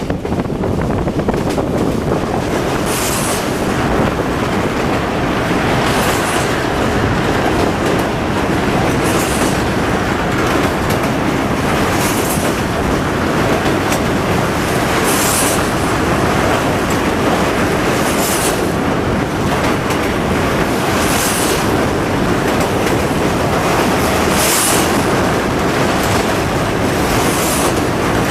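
Train running on the rails: a steady rumble with a short high hiss that recurs about every three seconds.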